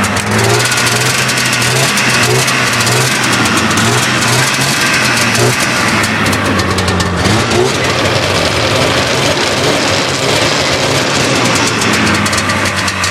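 1992 Polaris Indy Sport snowmobile's two-stroke engine running just after a cold start, having sat unused all winter. Its pitch wavers slightly.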